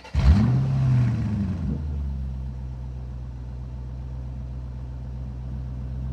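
Dirt bike engine revving up just after it begins, rising and falling in pitch for about a second and a half, then settling to a steady idle.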